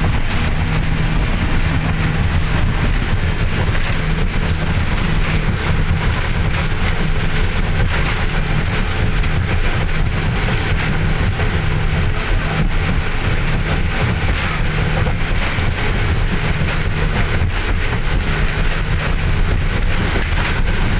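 Passenger speedboat's engines running steadily at cruising speed, with a constant rush of wind and water over the hull.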